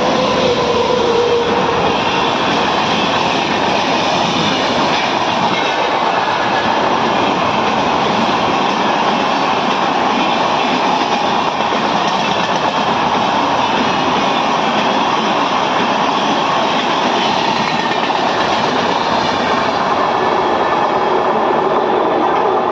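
Long-distance express train running through a station at speed without stopping: the coaches' wheels on the rails make a loud, steady, continuous rumble.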